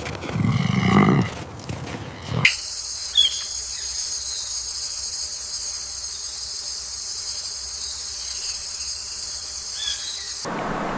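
A wild animal's low call or growl in the first two seconds, then a sudden switch to insects droning steadily at a high pitch for about eight seconds, with a few faint chirps over it.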